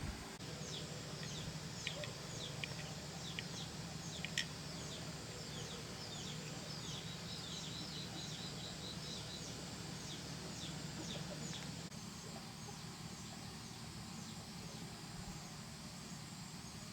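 Birds chirping: a rapid series of short, high, downward-sliding chirps that stops about twelve seconds in, over a steady low hum.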